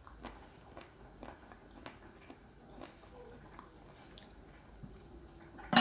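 Chewing a mouthful of spaghetti in cream sauce, with soft wet mouth clicks. Near the end a fork clinks sharply against the plate.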